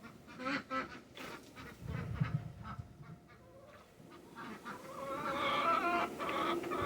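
Birds calling: a run of short pitched calls, faint at first and louder in the last two seconds.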